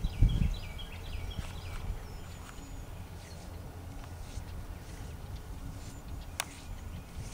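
Small birds chirping faintly over a steady low rumble, with a dull thump at the very start and a sharp click about six seconds in.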